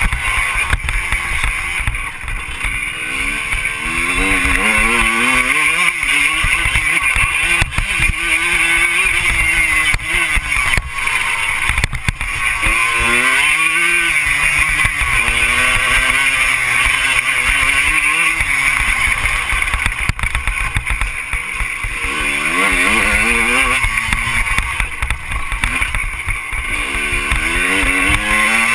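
Motocross bike engine revving up and down repeatedly as the throttle is opened and closed, over a steady low rumble.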